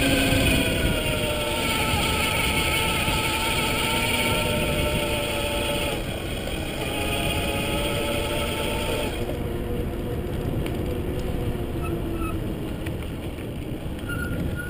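Electric mountain bike's motor whining steadily as the bike rides along, over a low rushing noise. The whine drifts slightly in pitch and fades out between about nine and twelve seconds in.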